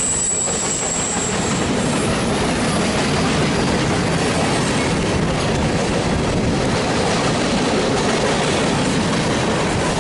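Mixed freight train's cars rolling past: a steady rumble and rattle of steel wheels on rail. A thin, high wheel squeal sounds in the first second or so, then fades.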